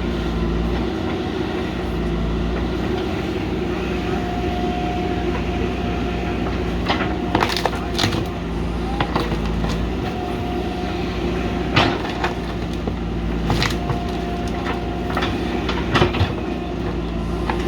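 JCB backhoe loader's diesel engine running steadily, with sharp knocks every few seconds: a cluster about halfway through and single ones near the end.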